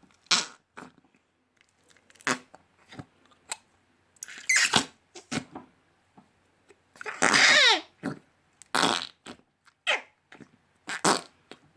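Slime being squeezed and pressed to make fart noises: a string of irregular wet squelches and pops, the longest about two-thirds of the way through with a warbling, falling pitch.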